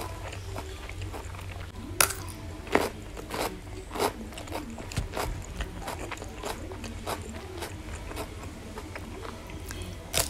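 Close-miked chewing and crunching of raw okra and cucumber with rice, eaten by hand. There are many small crisp clicks and a few louder crunchy bites, about two seconds in and again near the end.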